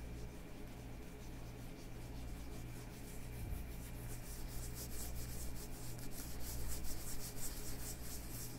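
Leather gloves being rubbed together in quick, even strokes, a dry rhythmic rubbing that grows louder in the second half.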